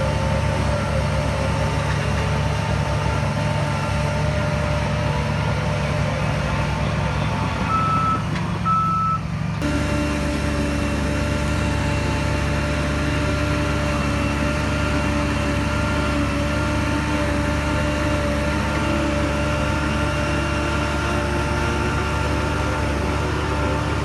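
Heavy diesel earth-moving machinery running steadily under load, with a steady whine over the low engine rumble. Two short high beeps come about eight seconds in, and the sound changes abruptly just before ten seconds.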